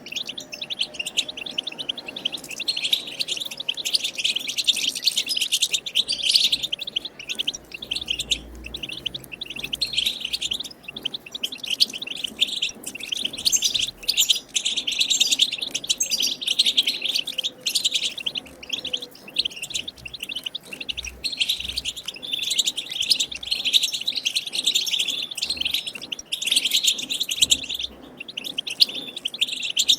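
European goldfinches twittering and chattering without a break in fast runs of high notes: the goldfinch 'batbata' song, of wild birds, used to prompt caged goldfinches to sing.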